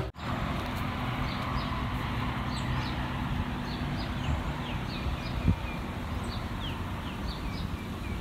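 A bird calling over and over in short falling chirps, about two a second, starting a couple of seconds in, over a steady low background rumble.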